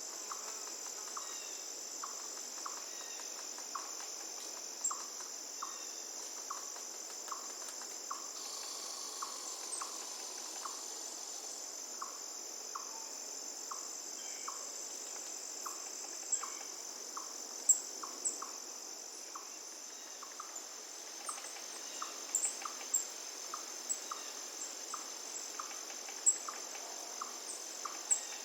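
Crickets trilling in a steady, high-pitched chorus, with a short lower note repeating about every two-thirds of a second and a few sharp high chirps over it.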